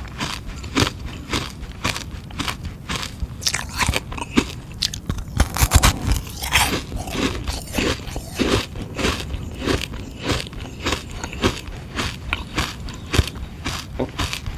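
Crunching and chewing of a hard sugar-water ice pop: a quick run of crisp bites and crackles, about two or three a second, loudest around six seconds in.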